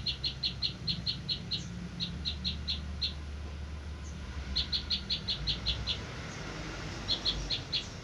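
A bird calling in quick runs of short, high notes, about five or six a second, four runs with short pauses between them.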